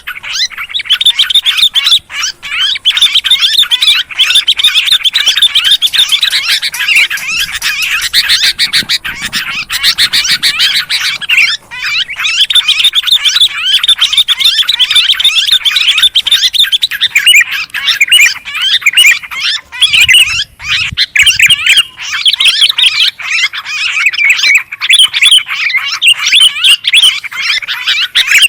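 Noisy chattering of bulbuls, sooty-headed bulbuls and yellow-vented bulbuls, a dense, continuous run of rapid, high chirps and squawks with a few brief gaps: a bird-luring call.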